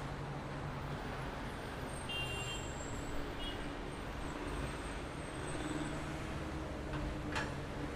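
Street traffic noise: a steady hum of passing vehicles, with a few brief high tones about two to three seconds in and one sharp tick near the end.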